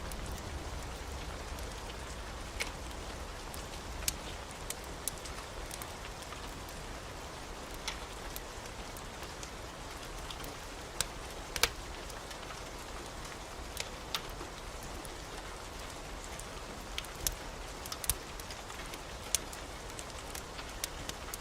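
Steady rain with scattered sharp clicks and ticks, over a soft low rumble that eases off after the first second or two.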